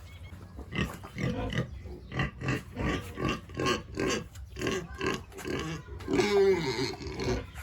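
Pigs grunting in a steady run of short grunts, about three a second, with a longer, louder call about six seconds in.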